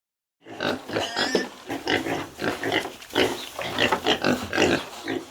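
Pig grunting and squealing in quick, irregular calls, starting about half a second in.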